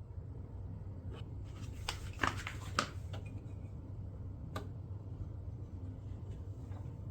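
Small clicks and rattles of hard parts being handled: a cluster of them about two to three seconds in and a single sharp click a little later, over a low steady hum.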